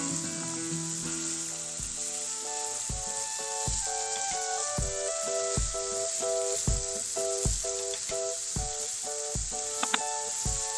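Food sizzling steadily as it fries in hot oil, with a couple of light utensil clicks near the end. A melodic backing track with a regular beat plays over it.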